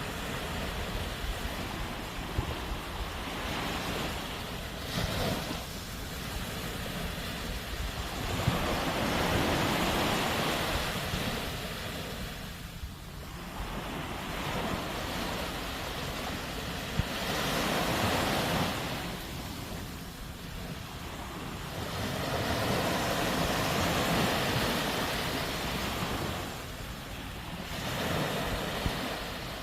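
Sea waves breaking on a beach: the surf swells and falls back again about every six to seven seconds.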